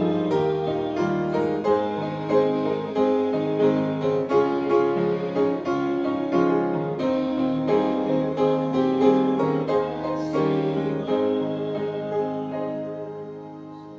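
Instrumental piano music playing steady chords and melody, growing quieter and fading out over the last couple of seconds.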